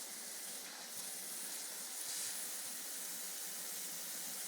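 Garden hose spraying water, a steady hiss.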